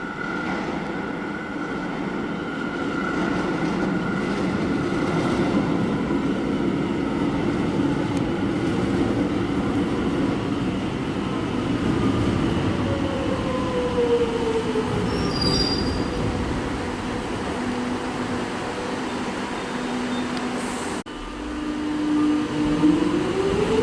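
Melbourne Metro electric suburban train pulling into an underground platform, wheels squealing, with a steady electric motor whine that falls in pitch as it slows. Very noisy, the sound echoing through the tunnel structure; near the end the rumble drops off suddenly and a rising tone follows.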